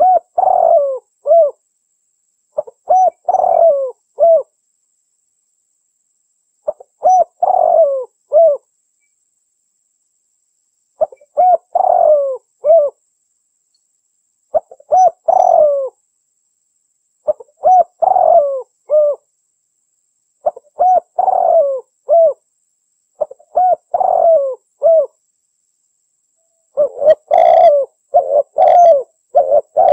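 Female derkuku dove cooing: phrases of a few low, rolling notes, each lasting about a second and a half and repeated every three to four seconds. Near the end the phrases come back to back, almost without a break.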